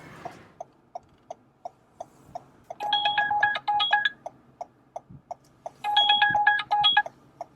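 A phone's electronic alert tone: two bursts of rapid, same-pitched beeps about three seconds apart, over a steady ticking of about three ticks a second.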